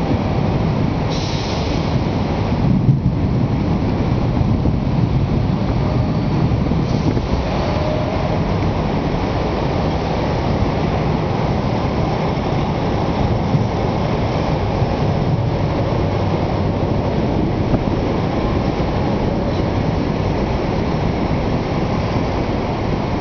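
Steady low rushing noise of a thunderstorm, wind and rain, with no single crack of thunder standing out.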